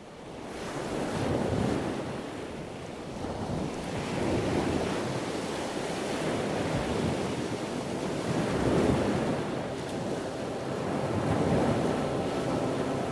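A rushing noise like surf or wind, swelling and easing every few seconds.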